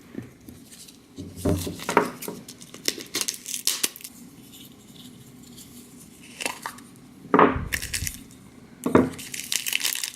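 Small hard toy pieces being handled: a run of light clicks, taps and clinks, with two louder knocks near the end, as a blind-box cupcake hut is opened and its contents are taken out.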